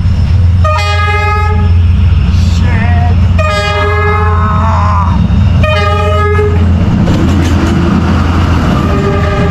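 Diesel train's horn sounding three blasts of about a second each, a fourth starting near the end, over the heavy rumble of the locomotive passing close by. From about seven seconds in, a loud rushing noise as the train runs past.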